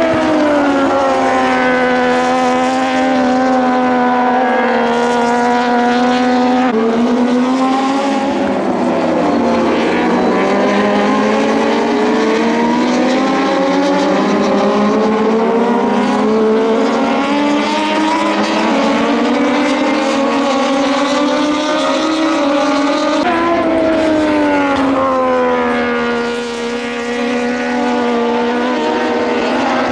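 Several Moto2 race bikes with Triumph 765cc three-cylinder engines running together, their engine notes rising and falling in pitch as they rev through the gears and shift down. The sound is loud and unbroken, with several bikes audible at once.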